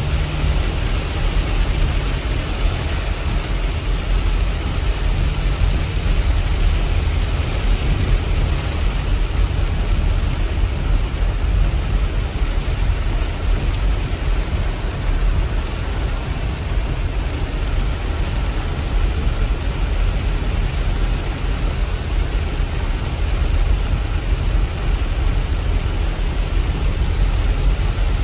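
Loud, steady rush of cloudburst floodwater, an unbroken noise heaviest in the deep low end, with no separate splashes or knocks.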